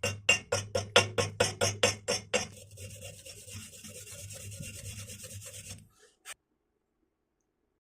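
Hand scrubbing strokes on metal, about five a second, of the kind a wire brush makes cleaning a weld. About two and a half seconds in they change to a quieter, steady scrubbing, which stops near six seconds. A single short knock follows.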